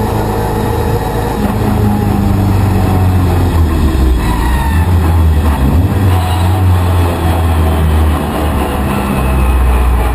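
Fiat 131 Group 2 rally car's engine running hard at speed, its note stepping up and down with throttle and gear changes.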